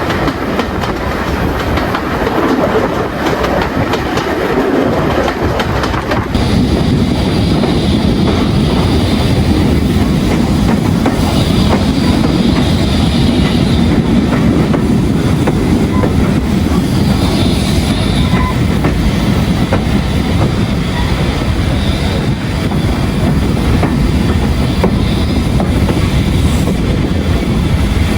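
Heritage train hauled by an LMS Stanier Class 8F steam locomotive, running along the line: a steady rumble with the wheels clattering over the rail joints. The sound changes abruptly about six seconds in, becoming a fuller, deeper rumble.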